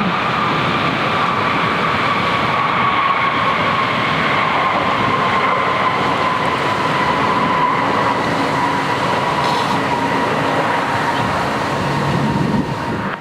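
Jet airliner engines running loud and steady, a rushing noise with a high whine that slowly falls in pitch.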